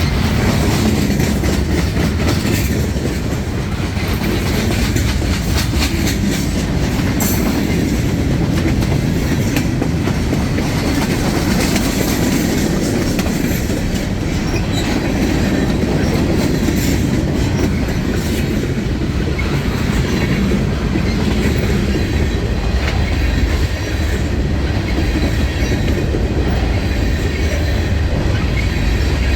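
Freight train cars rolling past, a loud, steady rumble with the wheels clicking over the rail joints.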